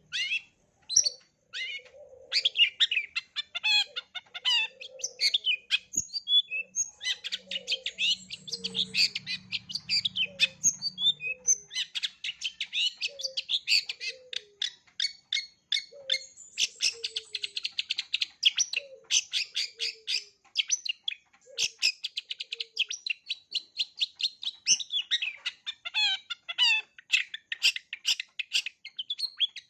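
Long-tailed shrike (cendet) singing a fast, unbroken run of varied chattering high notes, a song packed with mimicked calls of other birds. Beneath it a lower, downward-sliding note repeats about once a second.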